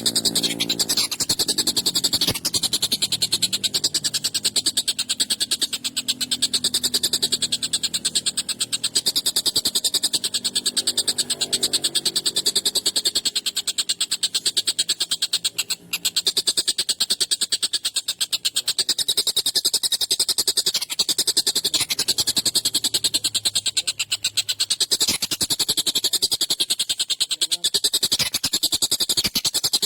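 Tengkek buto kingfisher calling in a harsh, rapid rattling trill, a fast even stream of notes with a brief break about halfway through.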